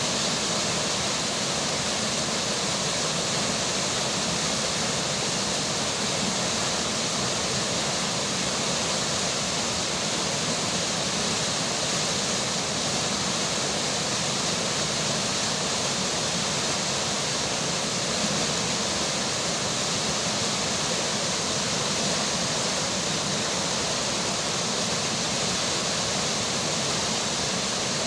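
River water rushing steadily, a constant even hiss of flowing water with no change throughout.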